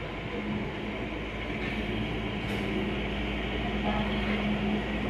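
Kalka–Shimla narrow-gauge train rolling slowly along the platform: a steady low rumble of the coaches on the rails with a steady engine hum, growing slowly louder.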